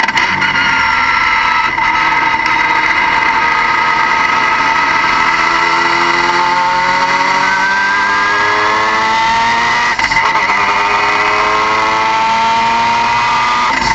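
Car engine running with a steady high whine over it; the engine note climbs slowly through the second half, with brief dips in level a couple of seconds in and about ten seconds in.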